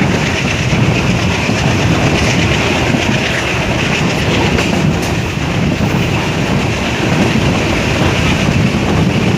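Passenger train running at speed, heard from aboard a coach: a steady, loud rumble and rattle of the wheels on the track.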